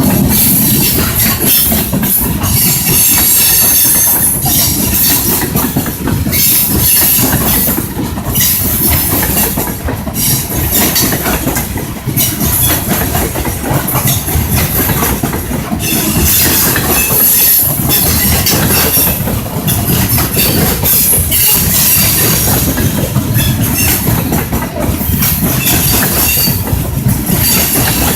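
Train rolling on rails, with a steady rumble and wheels clattering over the track. A high-pitched squeal from the wheels comes and goes several times.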